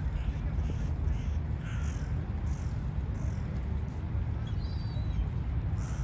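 Birds feeding on the ground give a quick series of short repeated calls through the first half, then a brief thin high call about two-thirds through, over a steady low rumble.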